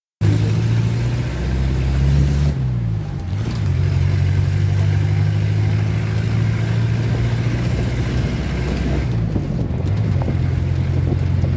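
Road vehicle's engine running steadily while driving, with a hiss of road and wind noise above it. The engine's pitch shifts and settles again about three seconds in and again about nine seconds in.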